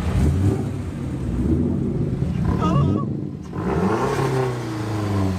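Car engine revving, its note climbing and falling, with a brief drop a little over three seconds in before it rises again.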